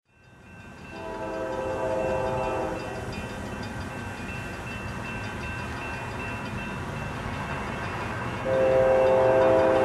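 Air horn of an approaching GE CW40-8 diesel locomotive: one blast about a second in and a longer one starting near the end, over a steady low rumble.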